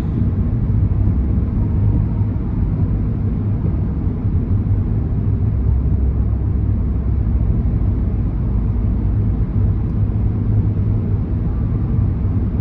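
Steady low rumble of a car driving along, road and engine noise.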